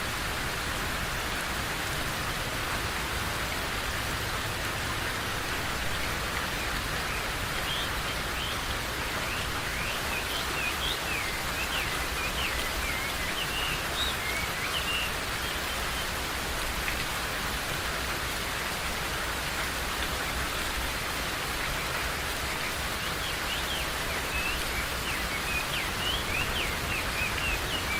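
Steady rain, with short high bird chirps coming in two spells: one starting about a third of the way in, and another near the end.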